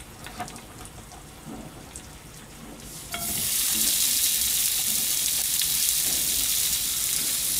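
A few faint clicks, then about three seconds in a loud steady sizzle sets in suddenly: wieners frying in oil in a frying pan.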